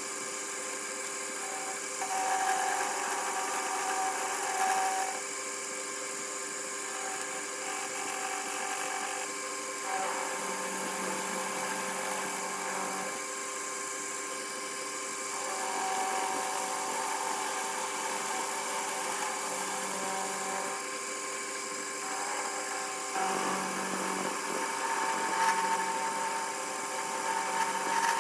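A TV-16 benchtop lathe fitted with a milling attachment, running with a steady machine hum. A higher whine comes and goes every few seconds.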